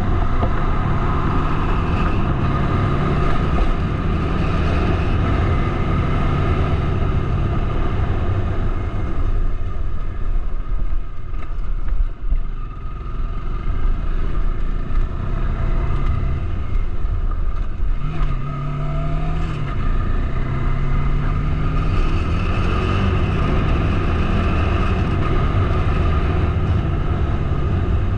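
Bajaj Dominar 400's single-cylinder engine running while riding, over a heavy low wind rumble. The engine note eases off and dips about ten to thirteen seconds in. From about eighteen seconds it climbs and drops back several times as the bike accelerates through the gears.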